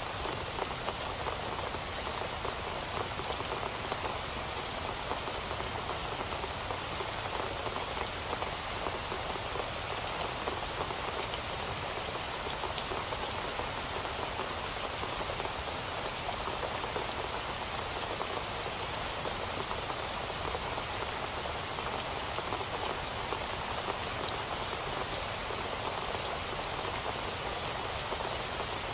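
Steady rain falling, a dense even patter of drops on a surface with fine individual drop ticks and no thunder.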